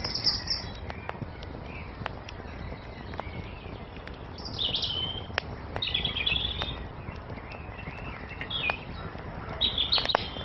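Songbirds chirping in short, repeated phrases, loudest about halfway through and near the end. Under them a wood fire crackles, with sharp pops every second or two over a low steady hiss.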